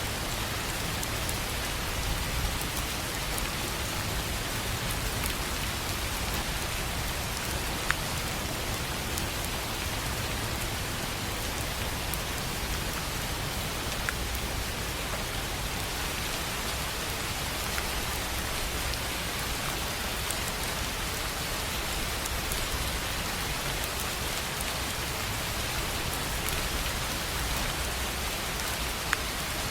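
Steady rain on a tin roof: a constant even hiss of drops, with a few louder single drop strikes standing out now and then.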